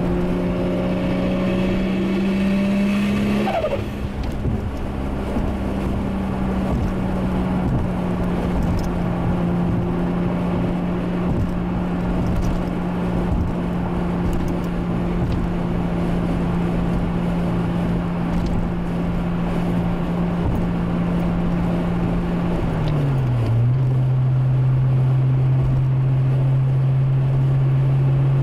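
Toyota Supra's turbocharged 1JZ straight-six engine running steadily under way, with a constant droning note; a little over twenty seconds in, the pitch drops quickly and settles at a lower steady note as the revs fall.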